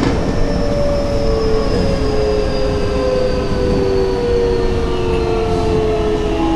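Nankai 8000 series electric train slowing down. Several thin motor-whine tones fall slowly in pitch over a steady rumble of running noise.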